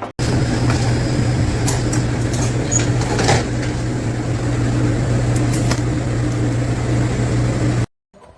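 A machine running steadily with a strong low hum under a noisy rattle, with a few sharp clicks; it cuts off abruptly near the end.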